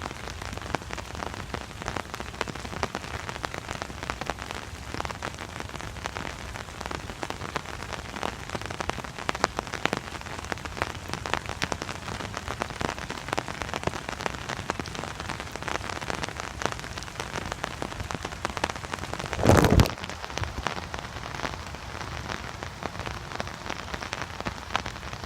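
Steady rain pattering on an umbrella overhead, with many separate drop ticks. A short, louder burst of noise about three-quarters of the way through.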